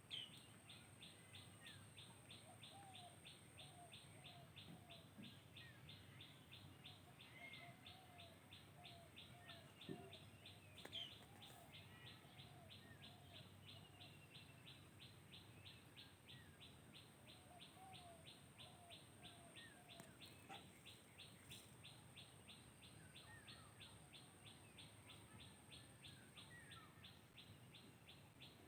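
Faint birds chirping, with short scattered calls over a steady, rapid pulsing chirp that repeats several times a second. There are a couple of faint clicks about ten seconds in.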